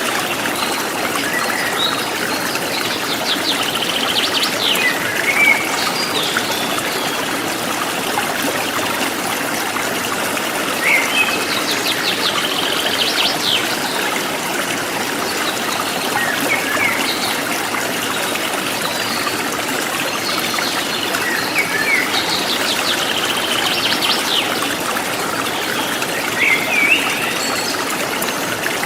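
Stream flowing steadily, with birds calling over it: short rapid trills and quick rising chirps that come back every few seconds.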